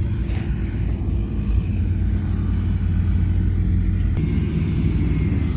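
Heavy diesel engine of construction machinery running steadily with a deep rumble, with a single sharp click a little after four seconds.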